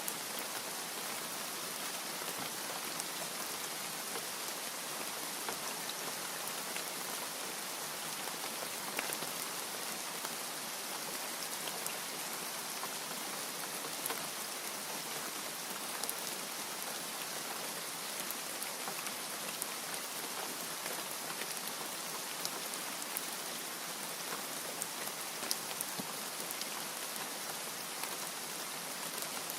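Steady rain falling, a continuous even hiss with many small, sharp drop ticks scattered through it.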